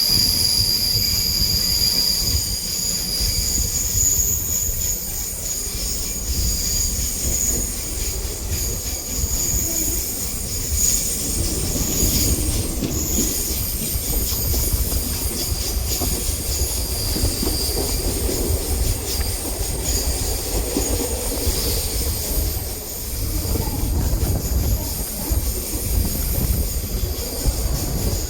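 Passenger train running on the rails, with a steady high-pitched wheel squeal over a constant low rumble.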